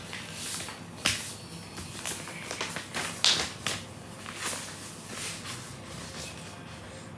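A sheet of paper being folded and creased into a paper airplane: irregular rustles and crackles of the paper, loudest about a second in and again just past three seconds.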